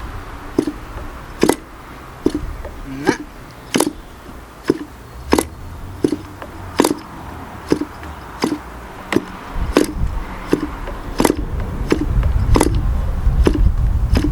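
K&B .40 model glow engine being turned over, giving single sharp pops at about one and a half a second, some louder than others, as it fires now and then without catching and running. The owner takes it to be short of prime or fuel.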